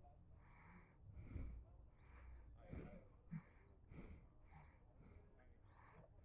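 Near silence with faint breathing close to the microphone, soft puffs about every half second or so.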